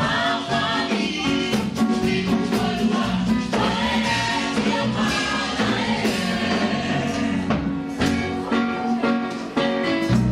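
Gospel praise song sung by a group of voices, with band accompaniment: a sustained bass line under a steady beat of percussion strokes.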